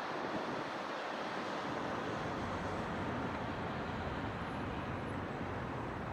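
Steady distant city traffic noise, an even wash of sound with no single vehicle standing out.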